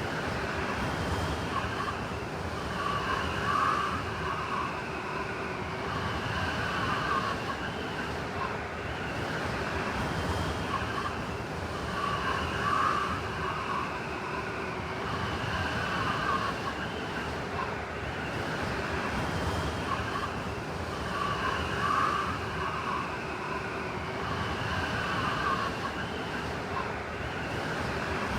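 Blizzard wind blowing steadily, with higher whistling gusts that swell and fade and recur about every nine seconds, as in a looped storm recording.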